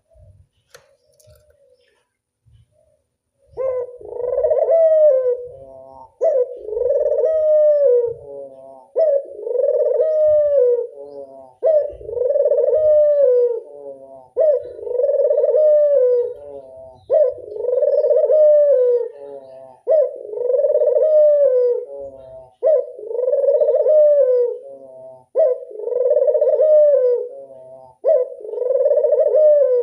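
Puter dove (domestic Barbary dove) giving its classic long cooing call over and over, roughly every two and a half seconds, starting a few seconds in.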